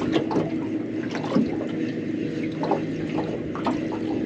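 Water splashing and dripping in small, irregular bursts over a steady low background hum.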